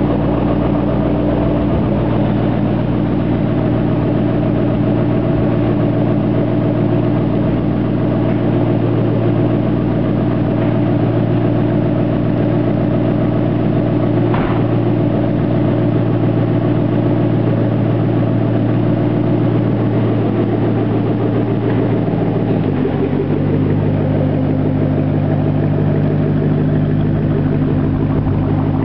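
2008 Mustang GT's 4.6-litre three-valve V8 idling through muffler-delete pipes with no mufflers. The idle is steady, then drops to a lower speed about 23 seconds in.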